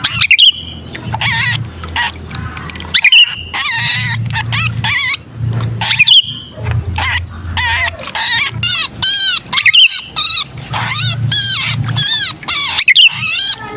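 Sooty-headed bulbuls (kutilang) giving harsh, rapid chattering and squealing calls, the panic calls of a bulbul caught in a trap, used as a lure for wild bulbuls. The calls come in quick series of arched notes, with a sharp loud squeal about every three seconds.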